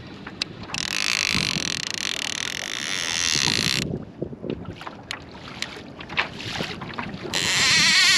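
Fishing reel drag screaming as a hooked fish strips line off the spool. It comes in two runs: one lasting about three seconds, then a second that starts sharply near the end.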